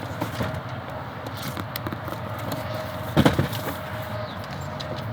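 One heavy thump about three seconds in, with a few light knocks over a steady background hum.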